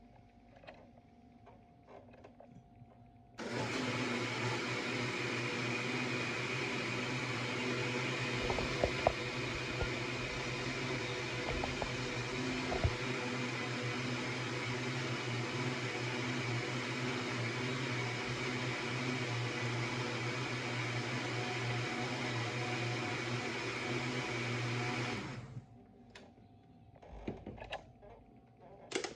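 Electric blender switched on, running steadily at one speed for about twenty seconds with a low motor hum, then switched off, blending the lemon charlotte's cream mixture.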